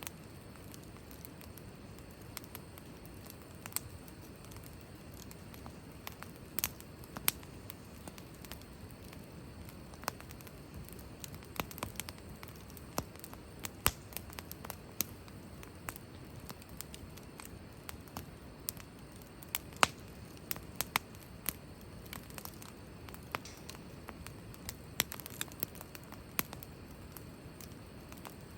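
Wood fire burning, crackling with irregular sharp pops over a low, steady flame noise.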